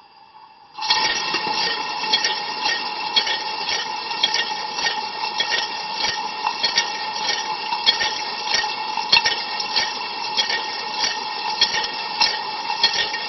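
Inside an Ariston LV 46 A IX dishwasher on a cold rinse: less than a second in, the wash pump starts and water from the spray arms sprays and splashes against the inside of the tub, a loud steady rush dotted with many small sharp hits of water. Before it, only a faint steady hum.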